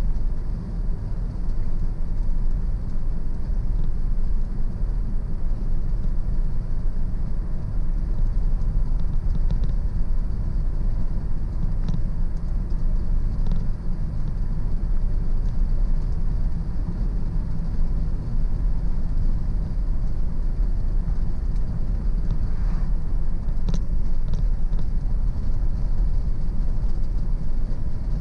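Car driving at a steady road speed: a constant low rumble of engine and tyre noise, with a few faint, brief ticks about halfway through and near the end.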